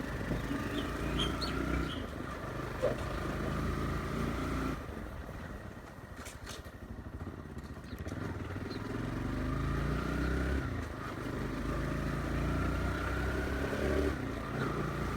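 Motorcycle engine running, quieter for a few seconds about midway, then picking up again.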